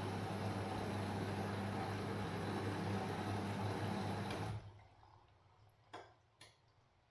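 Washing machine running, a steady hum under swishing water noise, which cuts off suddenly about halfway through; two faint clicks follow.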